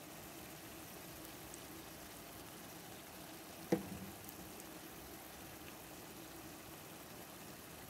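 Chicken and tomato puree bubbling in hot oil in a pan, a faint steady sizzle over a low hum, with one sharp knock nearly four seconds in.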